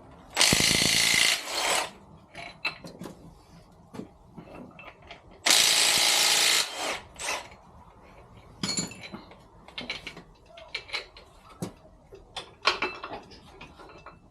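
Cordless impact gun run in two bursts of about a second each, loosening bolts on the engine's bottom-end bearing caps, with sharp clicks and knocks of metal parts being handled in between and afterwards.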